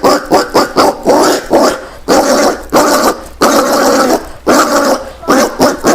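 Collared peccary calling in a quick, uneven series of rough grunting barks, short ones mixed with longer drawn-out ones.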